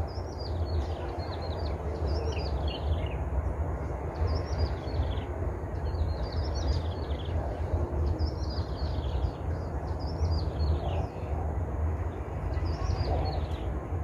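A bird singing short phrases of quick, high, falling chirps, repeated every second or two, over a steady low rumble.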